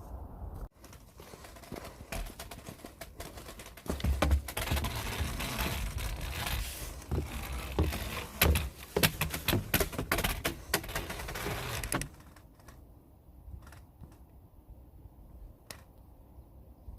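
Hiker's footsteps and small knocks on a mountain trail: a dense run of irregular clicks and thuds in the middle, sparser and fainter before and after.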